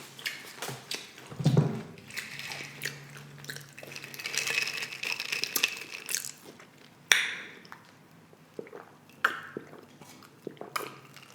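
Close-up chewing and crunching of loaded tortilla-chip nachos, with irregular crackles and wet mouth sounds and a sharp loud crunch about seven seconds in. A short vocal sound comes about a second and a half in.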